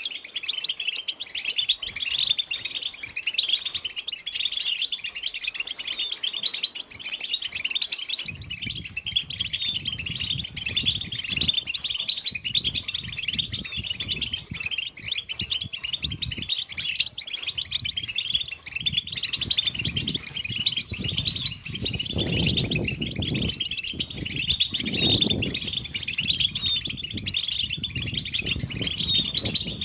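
European goldfinches chattering and singing: a dense, continuous flurry of quick twittering notes from several birds at once. From about eight seconds in a low rumble runs underneath, swelling twice in the second half.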